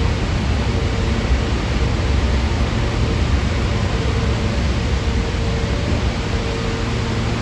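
Inside a moving R160 subway car: a steady rumble of wheels on rail with a faint motor hum.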